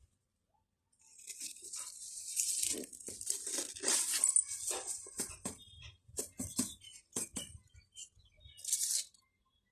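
Irregular rustling and crackling, with short sharp clicks, from about a second in until near the end.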